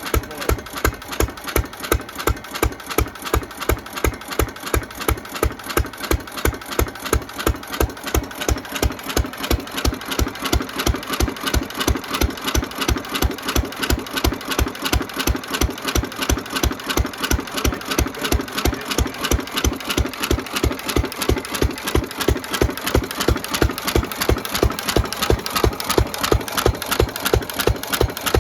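1917 Fairbanks 3 HP single-cylinder throttle-governed stationary engine running steadily, with an even, regular firing beat. It is running on a newly fitted original carburetor, with new rings and valve train still breaking in.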